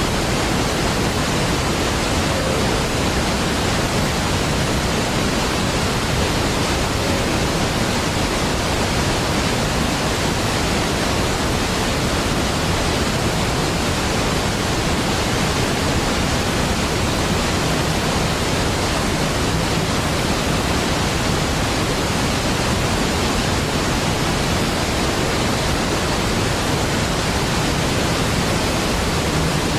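Large waterfall: water falling and crashing in a steady, unbroken rush that stays even in level.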